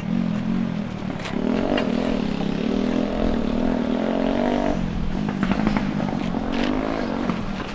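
A small vehicle engine running steadily, its pitch wavering slightly and dipping briefly about five seconds in.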